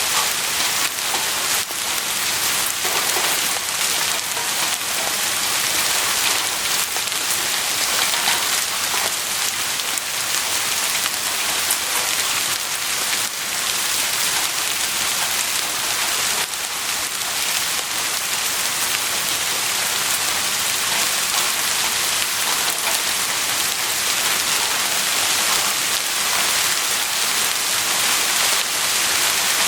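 Heavy rain falling steadily, a dense even hiss of many drops hitting a surface.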